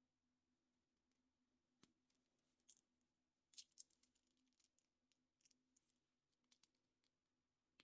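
Faint, scattered small clicks and crinkles from hands handling a surprise egg's wrapper and small plastic parts.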